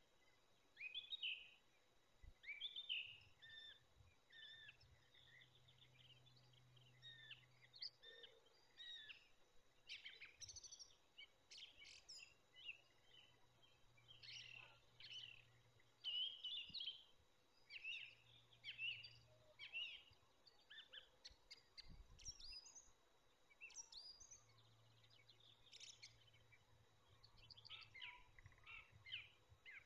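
Faint chirps and song phrases of small wild birds, many short calls overlapping almost without a break. A faint low hum comes and goes underneath.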